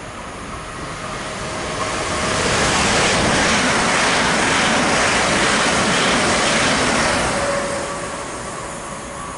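Heathrow Express Class 387 electric multiple unit passing through on the fast lines, its wheel and rail noise swelling to a loud peak over a few seconds and then fading away.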